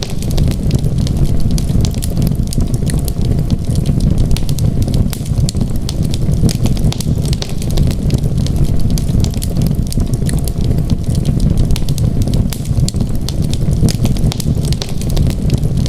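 Wood fire burning in a fireplace: a steady low rumble with dense, irregular crackling and popping.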